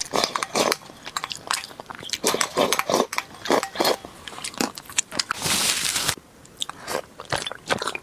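Close-miked eating: a person biting and chewing food, with many short wet clicks and smacks. A short hissing rush comes about five and a half seconds in.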